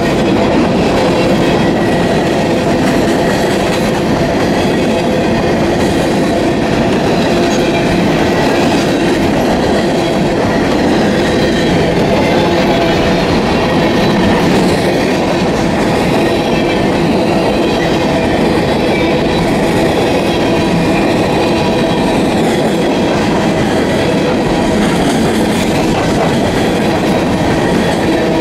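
Coal hopper cars of a long freight train rolling past close by: a steady, loud rumble of steel wheels on the rails that does not let up.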